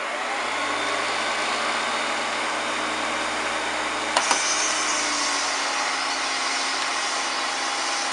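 1993 Hoover Turbopower 2 U2464 upright vacuum cleaner running steadily at full suction with the hose in use, its motor just up to speed at the start. A couple of sharp clicks sound a little past four seconds in.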